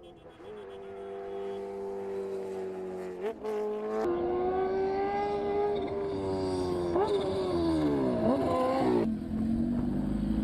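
High-revving race engine accelerating hard, its pitch stepping at gear changes, then falling away near the end.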